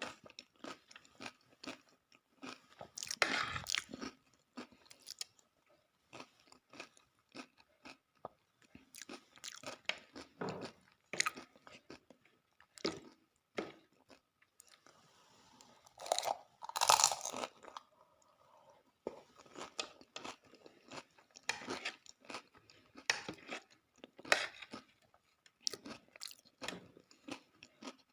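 A person chewing and crunching dahi puri, the crisp fried puri shells filled with yogurt breaking between the teeth in irregular bursts of crunches, loudest about three seconds in and again around sixteen to seventeen seconds.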